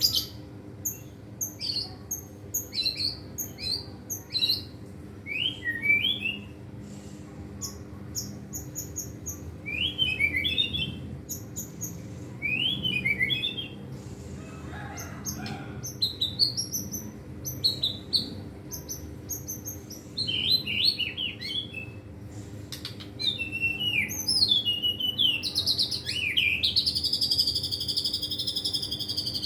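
Young white-rumped shama singing a varied song of quick whistled phrases and chirps, with its mimicked filler notes, ending in a long buzzy trill near the end.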